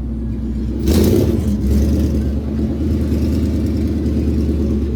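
Car engine running close by, with a loud rev about a second in that settles back to a steady run.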